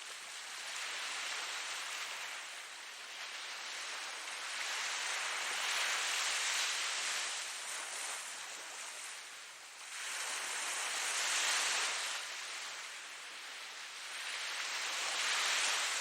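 Ocean waves washing onto a shore, a steady hiss of surf that swells and ebbs in slow surges every few seconds.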